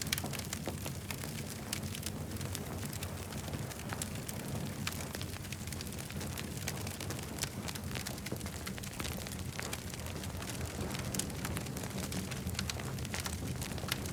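Campfire burning, with many irregular sharp crackles and pops over a steady low rumble.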